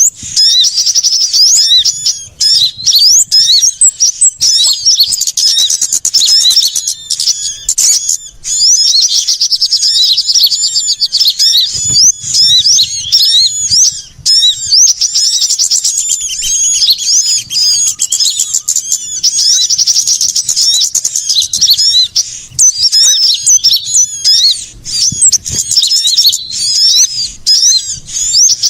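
A dense, agitated chorus of many small birds calling at once: quick high chirps and trills overlapping without a break. This is a bird-lure recording of noisy small birds, played to draw wild small birds in.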